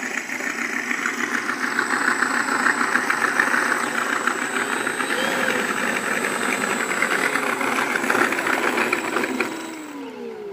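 Simulated piston-engine sound from the RC P-40N's onboard Mr Sound electronic sound system, a fast pulsing engine note that cuts off about nine and a half seconds in and is followed by a falling tone as it winds down.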